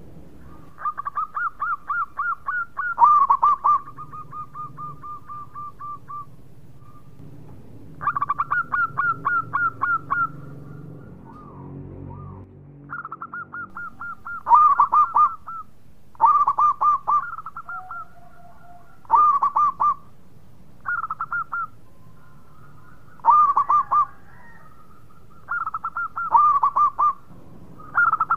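Zebra dove (perkutut) singing: phrase after phrase of quick, pulsed, trilling coos, each lasting about a second or two, with short pauses between them and some phrases quieter than others.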